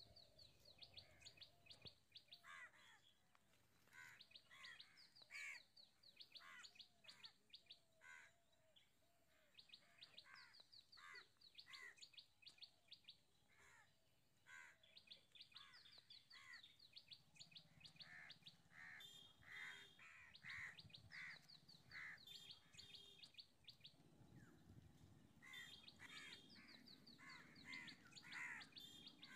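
Faint songbirds singing: quick runs of high chirps in phrases of about two seconds, repeated again and again.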